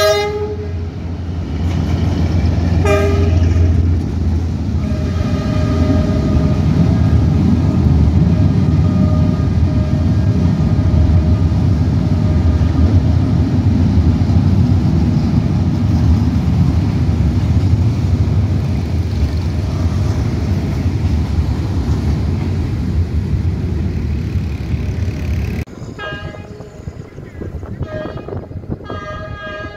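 Diesel locomotive giving two short horn toots as it passes beneath, then a freight train loaded with steel bars rumbling past on the rails. The rumble drops off suddenly about 26 seconds in as the train clears.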